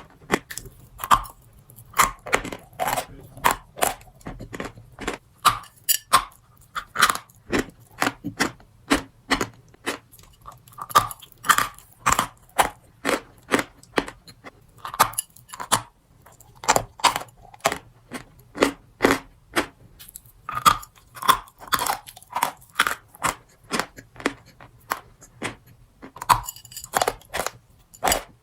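Close-up biting and chewing of a crunchy strawberry crunch treat: a rapid, uneven series of sharp crunches, several a second.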